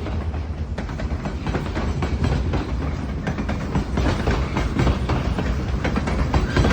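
Freight train cars rolling past, wheels clattering over the rail joints with a steady low rumble.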